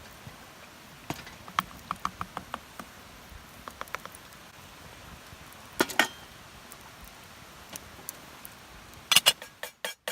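Scattered light clicks and taps over a faint steady hiss, with a sharper pair of clicks about six seconds in and a quick run of clicks near the end.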